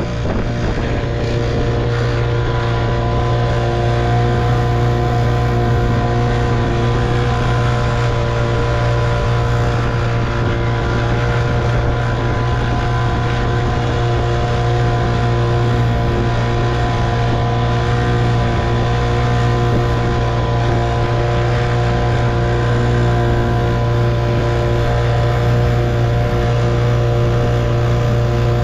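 1958 Evinrude 3 hp two-stroke outboard motor running steadily at a constant throttle, with a strong low hum and an even, unchanging pitch.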